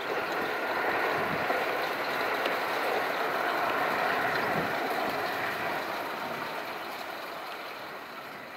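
JR West 683-series electric limited express train running away around a curve, its wheel-on-rail and running noise fading steadily over the last few seconds.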